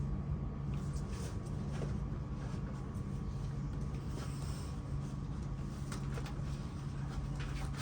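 A steady low mechanical hum with a faint higher tone above it, and a few light knocks and scrapes scattered through it.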